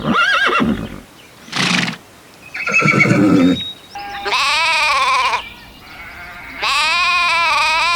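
A run of separate farm-animal calls: a short arching call, a brief harsh burst and a pitched call about a second long, then two long quavering bleats about halfway and near the end.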